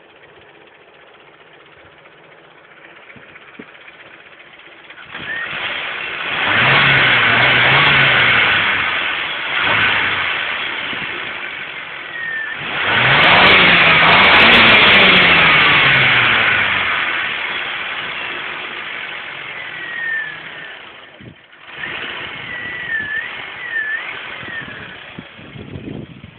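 Honda Civic 1.3-litre four-cylinder engine idling steadily, then revved twice, its pitch rising and falling back each time, with a few shorter blips of throttle near the end.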